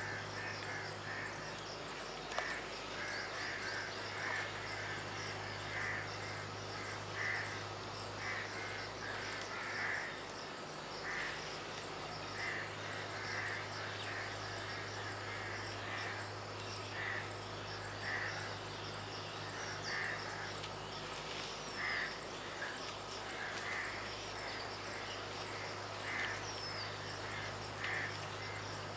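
A bird calling over and over in short, harsh crow-like calls, about one a second, with a steady low hum underneath and a few thin high chirps in the second half.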